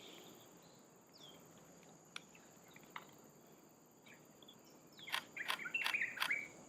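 Forest ambience: a steady high-pitched insect drone with scattered faint bird calls, then about five seconds in, a short run of louder bird chirps and trills.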